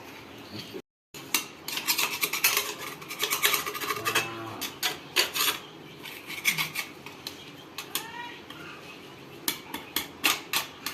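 Metal tools and steel tractor gearbox parts clinking and clattering as they are handled, with many sharp clinks and some scraping.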